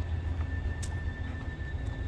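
Freight train rolling past with a steady low rumble, a faint high steady tone through the middle, and a sharp click about a second in and again near the end.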